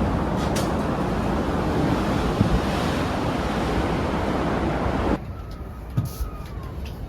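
Train running with a loud steady rush that cuts off abruptly about five seconds in, leaving a quieter hum with a faint high whine.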